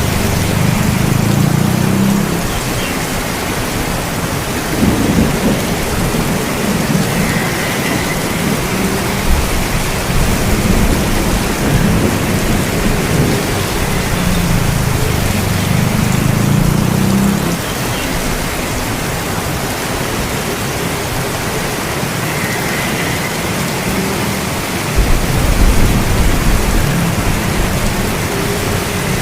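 Steady rain falling, with low rumbles of thunder rolling in several times.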